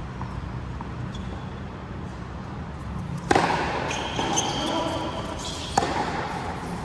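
Racket-sport rally on an indoor court: a steady low hum, then about three seconds in a sharp ball strike ringing in the hall. High squeaks of shoes on the court floor follow, and a second sharp hit comes near the end.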